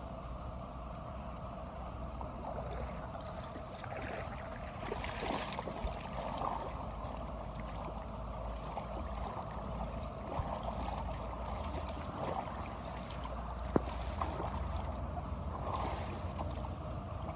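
Water rushing and splashing, with scattered small knocks and one sharper knock late on.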